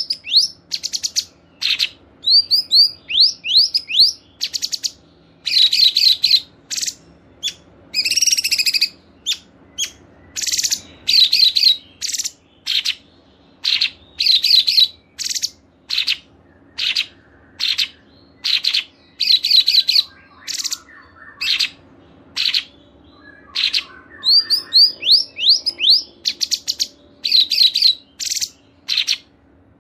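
Songbirds chirping in short bursts of rapid, high, clear chirps and trills with brief pauses between phrases, a mix of several species' songs.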